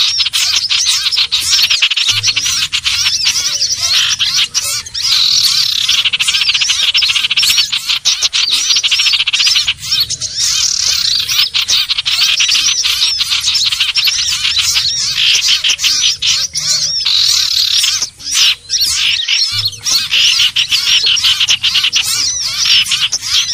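Common iora (sirtu/cipoh) calling without pause: a dense, rapid chatter of high chirps and trills, with only a few brief gaps. It is a lure recording of the kind used to draw the bird in, which the uploader labels a female calling a male.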